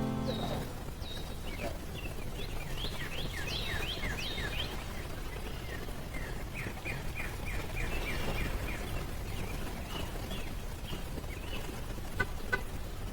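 Small birds chirping in quick runs of short downward notes over a steady low outdoor rush, with two sharp clicks near the end.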